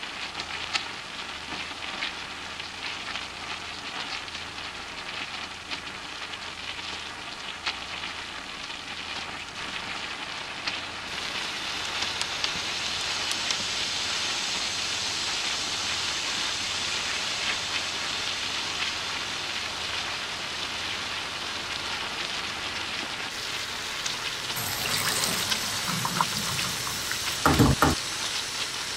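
Sliced onions and whole dried red chillies sizzling and crackling in hot oil in a large aluminium kadai, with a metal spatula scraping and stirring. The frying grows louder and denser about halfway through, and near the end there is a short loud burst as steam billows up from the pan.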